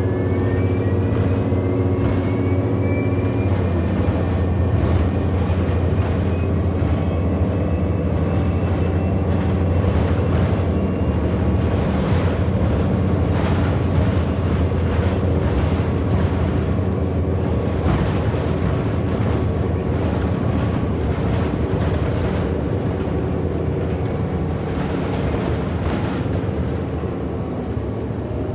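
Inside a 2008 Orion VII NG hybrid-electric city bus under way: a steady low drone from the drivetrain, with the electric traction motor's high whine rising in pitch and levelling off over the first few seconds. Short rattles from the body and fittings come through throughout.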